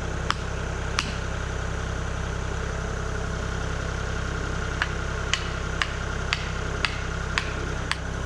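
Kubota KX040 mini excavator's diesel engine idling steadily, with sharp clicks coming twice near the start and then about every half second in the second half.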